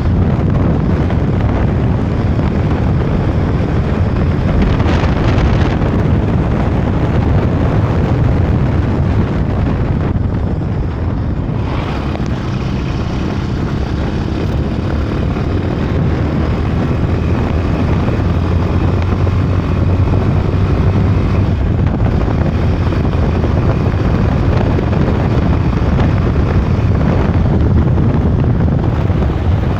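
Continuous riding noise from a moving bike: a loud, steady rumble of wind on the microphone and travel noise, dipping briefly about ten seconds in.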